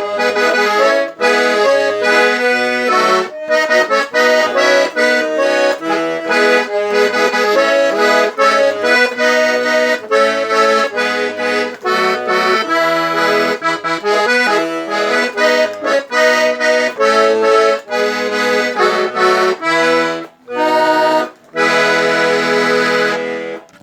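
Accordion (sanfona) playing an instrumental passage of quick melody notes and chords over bass notes. It ends on one long held chord that fades out just before the end, closing the song.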